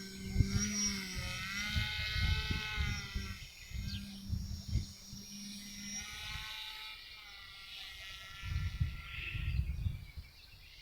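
Motor and propeller of a radio-controlled paramotor whining, its pitch wavering up and down with throttle before it fades about halfway through. Low rumbling gusts of strong wind buffet the microphone at the start and again near the end.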